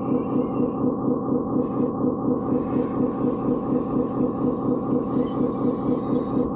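Radio-controlled construction machine running steadily, with a regular chugging pulse about three times a second.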